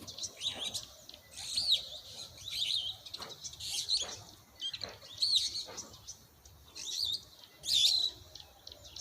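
A small bird chirping: short, looping high whistled phrases repeated about once a second.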